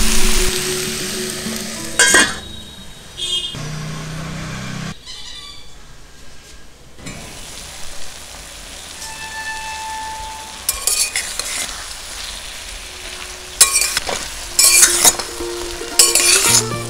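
Tomato chutney frying in a stainless steel pan. It sizzles loudest at the start and dies down after about two seconds. A spatula stirs and scrapes against the pan in several short strokes, once near the start and a few times in the second half.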